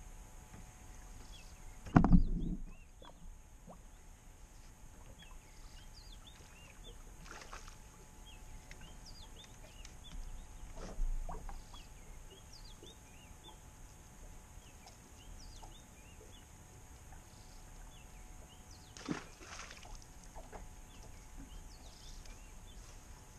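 Quiet open-water ambience with many faint, short bird chirps throughout. A low thump about two seconds in, and softer knocks around eleven and nineteen seconds in, from the angler moving on the boat's deck.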